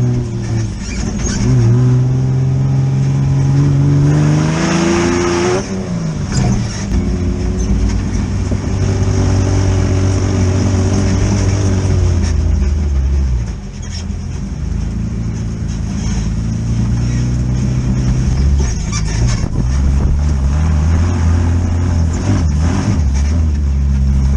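Air-cooled Volkswagen engine of a tube-frame Baja Bug off-road buggy revving up and down as it is driven. Its pitch climbs hard a few seconds in and drops, falls away again about halfway through, then picks back up.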